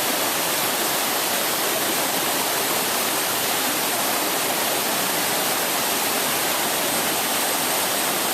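Waterfall, a steady, loud rush of falling water with no let-up.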